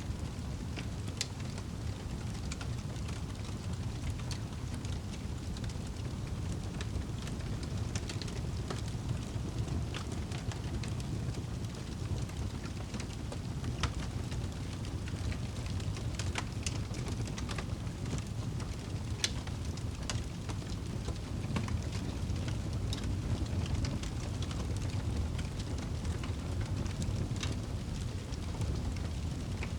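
Wood fire burning in a fireplace: a steady low rush of flame with scattered sharp crackles and pops from the burning wood.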